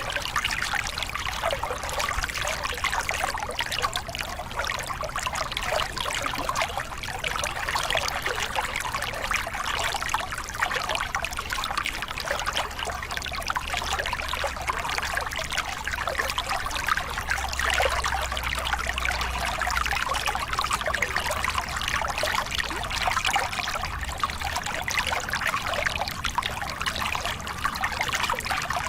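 Small river cascade: water pouring and splashing over rocks in a steady, even rush with fine trickling detail.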